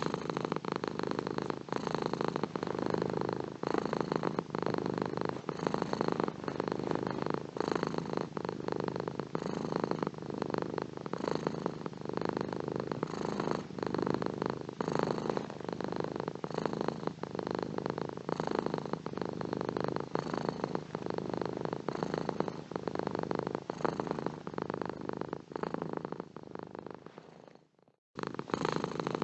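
Domestic cat purring steadily and close up, a continuous fast rumbling purr. Near the end it fades out, stops for a moment, then resumes.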